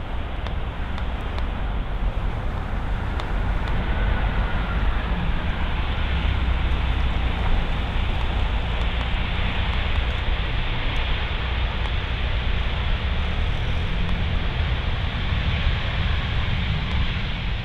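Steady jet engine noise from an Airbus A319 mixed with a strong low rumble of gusting wind on the microphone, swelling slightly a few seconds in.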